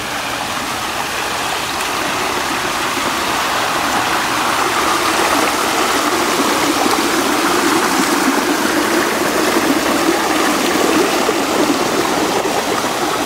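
Water rushing and cascading down a shallow waterfall stream, a steady rush that grows a little louder a few seconds in.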